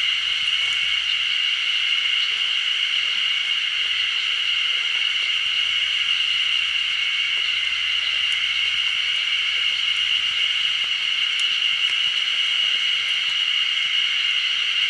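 Steady, continuous shrill buzzing of cicadas singing in chorus, with no break or change.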